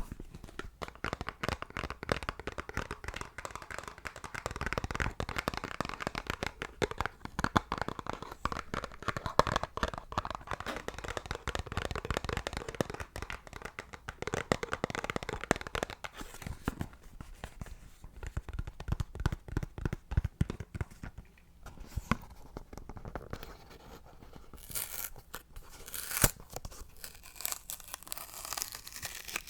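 Close-microphone ASMR trigger sounds: a dense, fast run of small crackly clicks and taps, with a few sharper hissy bursts near the end.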